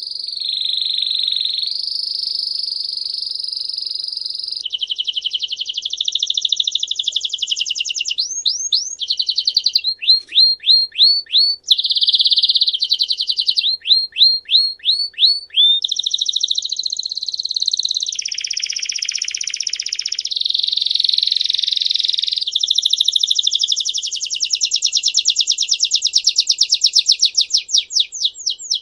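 A songbird singing a long, continuous, high song of held trills and rolls. It breaks into runs of quick downward-sweeping notes, about four or five a second, and closes with fast rapid-fire trills. The song starts suddenly out of silence.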